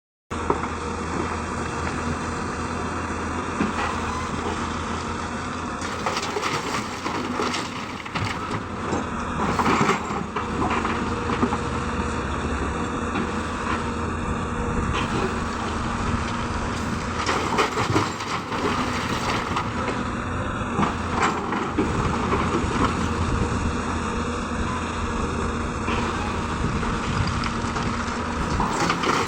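Hyundai excavator's diesel engine running steadily, with bursts of stone clattering and scraping several times as the bucket digs and loads a dump truck.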